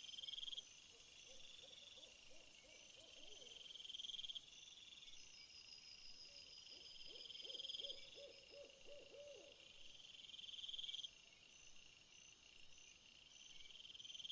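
Faint night insect chorus: insects trilling in repeated pulses, with a high steady hiss that drops out about four seconds in. Twice, a low trill of rapid notes is heard, once early and once around the middle, of the kind an owl gives.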